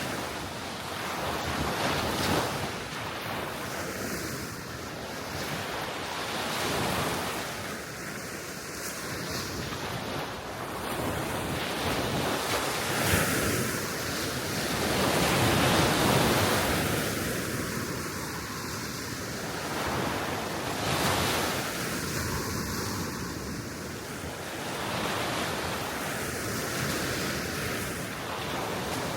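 Small sea waves washing onto the shore, swelling and easing every few seconds, with the biggest surge about halfway through. Wind blows across the microphone throughout.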